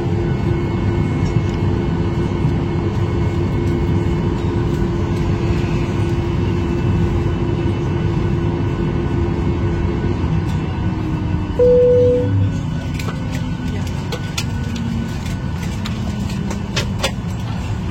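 Airliner cabin noise while taxiing in after landing: a steady low rumble with an engine hum that fades and slides down in pitch from about ten seconds in as the engines wind down. A single cabin chime sounds about twelve seconds in, followed by scattered clicks.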